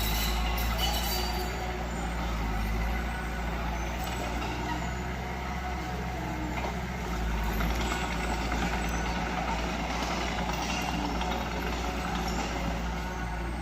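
Diesel engine of earthmoving machinery running steadily at work, a continuous deep engine drone with a mechanical clatter over it.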